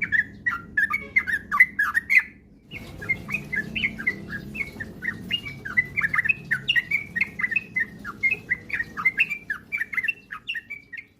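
Yellow-vented bulbul (trucukan) song: a fast, continuous run of chirpy, warbling notes. It breaks off briefly about two and a half seconds in, then resumes and stops near the end.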